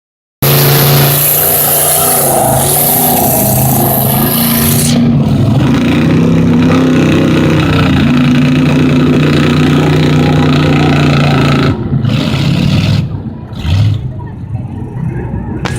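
Mega truck's engine running loud under throttle, its pitch rising and falling, with a loud hiss over it for the first five seconds; it drops away and grows quieter about twelve seconds in.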